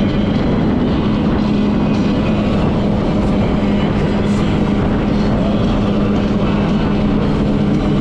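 Jet ski engine running at a steady cruising speed, with one unchanging engine note under a loud rush of wind and water noise.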